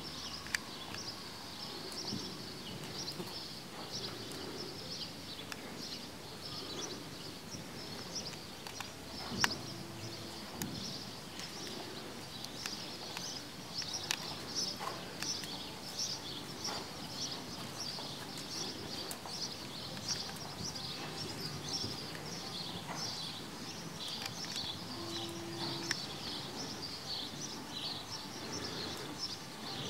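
Small birds chirping continuously in quick, high, overlapping chirps, with a few faint knocks.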